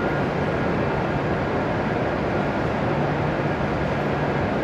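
Steady whirring hiss with a low hum from a stationary E7 series Shinkansen standing at the platform with its onboard equipment running.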